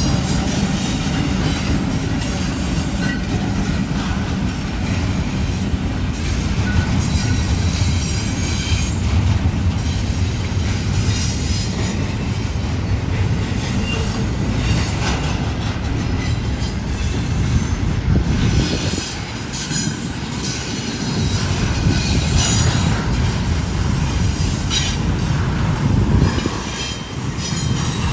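Union Pacific intermodal freight train rolling past: a steady low rumble of diesel locomotives, then double-stack container cars running on the rails, with high wheel squeal coming and going.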